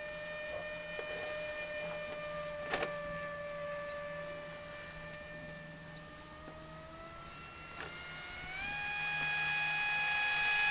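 High-pitched whine of a Dynam Hawk Sky RC plane's Grayson Hobby Monsterjet 2400kv brushless electric motor and propeller in flight on a 3S lipo, holding a steady pitch and fading a little, then rising in pitch about eight seconds in and growing louder near the end as it speeds up toward the microphone. Two short clicks, near three seconds and near eight seconds.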